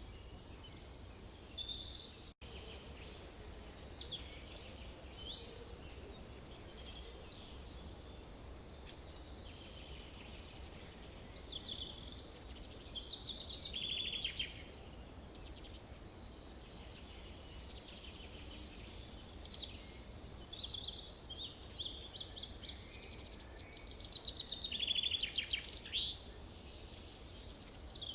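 Several birds singing and calling in a forest, with chirps, whistles and fast trills, the loudest trills about halfway through and again near the end, over a steady low background rumble.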